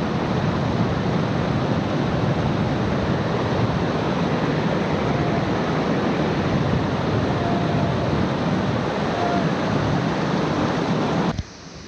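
Waterfall pouring into a pool: a loud, steady rush of falling water. It cuts off abruptly near the end, leaving a much quieter background.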